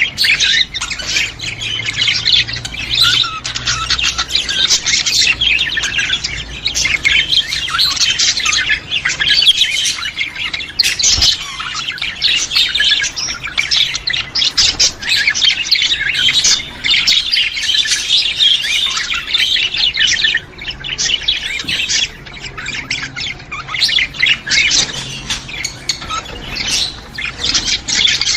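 A flock of budgerigars chattering and squawking, many short overlapping calls without a break.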